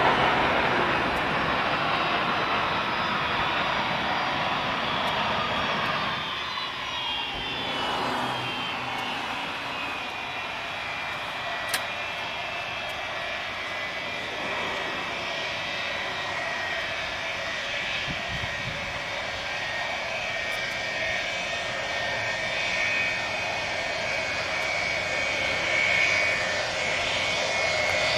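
Pratt & Whitney JT3D turbofan engines of a four-engine jetliner, loud at first and easing off by about six seconds in. A high, steady turbine whine follows, its pitch sliding down at first, then holding and swelling again near the end.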